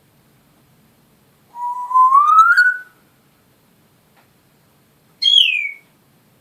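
Pet parrot whistling twice: a long whistle rising slowly in pitch, then a short higher whistle falling in pitch.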